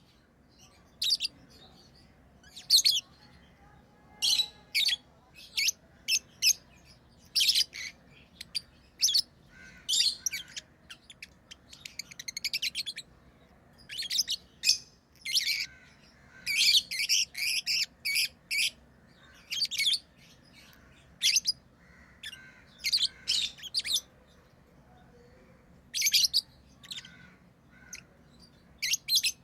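Pet lovebirds chirping: many short, shrill calls that come irregularly, some in quick runs, with brief pauses between.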